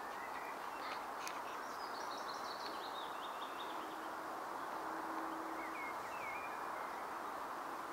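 Outdoor background noise with birdsong: a bird sings a run of short high notes that step downward in pitch about a second and a half in, and a few chirps follow near the end. A faint steady low hum comes in briefly midway.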